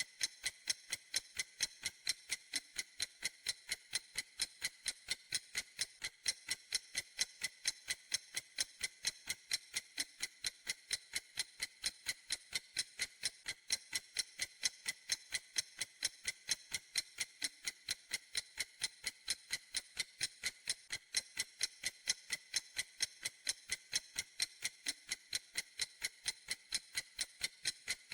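A clock ticking in a steady, even rhythm, each tick a crisp, bright click.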